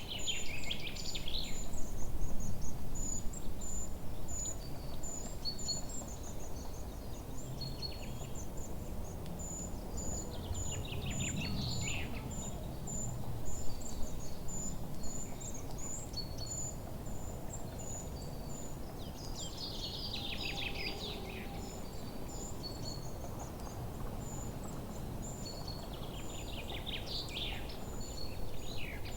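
Forest birdsong: a songbird sings a cascading, downward-trilling phrase about every seven to eight seconds, over a steady run of high, thin chirps repeating a few times a second and a low rumble of background noise.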